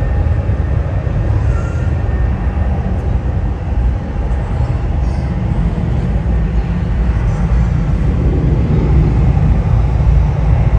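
Jet airliner engines giving a steady, loud, low rumble with no rising or falling pitch.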